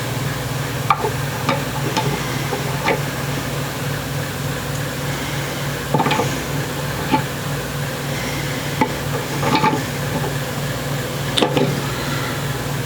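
Light clicks and taps, about a dozen scattered irregularly, over a steady low hum.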